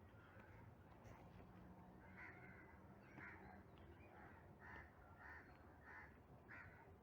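Faint crow cawing: a run of about seven short caws, starting about two seconds in and coming roughly every half second to a second.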